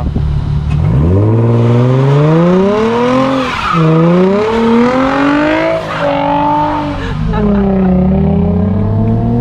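Nissan 350Z's V6 engine accelerating hard, its pitch climbing and then dropping at an upshift about three and a half seconds in and again about six seconds in, before settling to a steady pitch.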